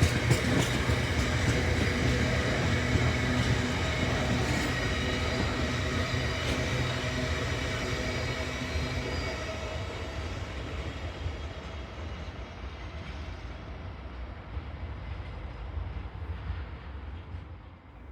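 Freight train wagons rolling past on the rails with a faint squeal from the wheels, the sound fading steadily away as the train recedes.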